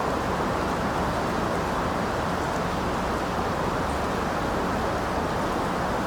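Steady rain falling, an even rush of noise with no single drops or other sounds standing out.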